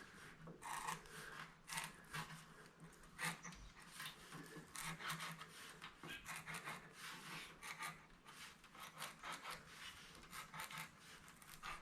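Sharpened screwdriver tip scoring along the lines of a paper pattern held on sheet metal: faint, irregular short scratching strokes, over a faint steady low hum.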